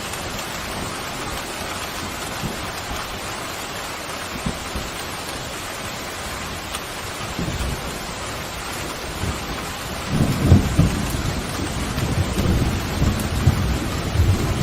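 Steady heavy rain hiss, with a roll of thunder building low from about seven seconds in and breaking into a loud, long rumble about ten seconds in that carries on to the end.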